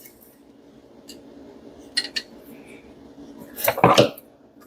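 Metal hand tools clinking: a socket wrench working the bolts of the intake manifold brackets, with a few light clicks and a louder cluster of knocks and rattles near the end.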